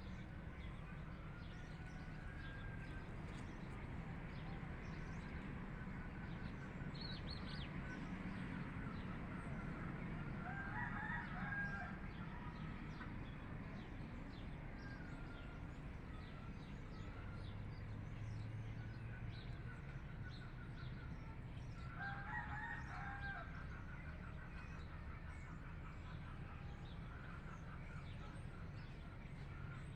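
A rooster crowing twice, about ten seconds in and again about eleven seconds later, each crow lasting about a second and a half. Lighter clucking and chirping go on throughout over a steady low rumble.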